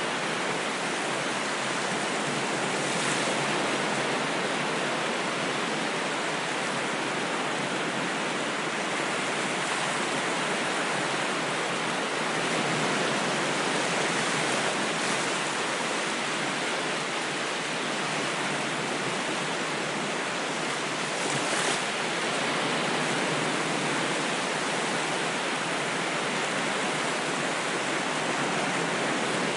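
Ocean surf rushing steadily: an even hiss with gentle swells in level and a few brief brighter splashes.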